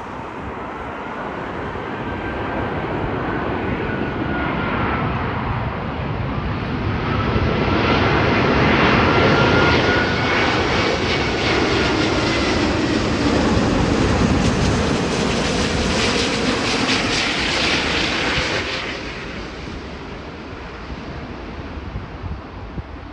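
Qantas Airbus A380-842's four Rolls-Royce Trent 970 turbofans flying past on arrival: a jet roar that builds, stays loudest through the middle with a whine gliding in pitch, then falls away near the end.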